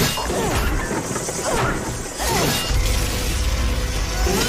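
Action-scene sound effects: sharp crashing impacts and falling swooshing glides over dramatic background music, with a low rumble building in the second half.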